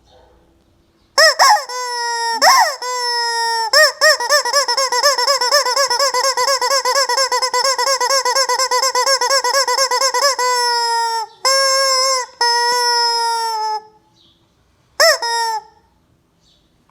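Rubber squeaky chicken toy squawking as it is squeezed: a few short squawks, then a long rapidly warbling squawk, then two held squawks and a last short one.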